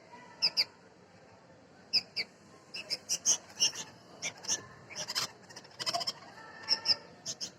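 Bulbul nestlings calling with short, high chirps, often in quick pairs, coming thicker and faster midway. These are chicks calling while they wait for a parent to bring food.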